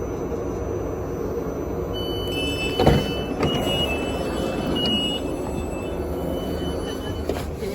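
Electric multiple-unit train at a station platform: a steady low rumble, with a high beeping tone sounding on and off from about two seconds in. A single loud knock comes just before three seconds.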